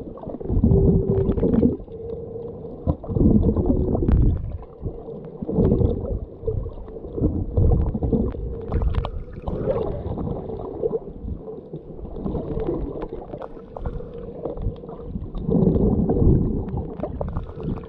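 Muffled water sloshing and gurgling around a camera held in or just under the sea, in irregular swells every second or two, with a faint steady hum beneath.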